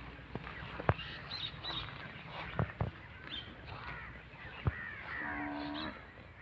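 Birds calling: scattered short chirps, and a harsh drawn-out call lasting most of a second a little after five seconds. Several sharp clicks or snaps are heard in between.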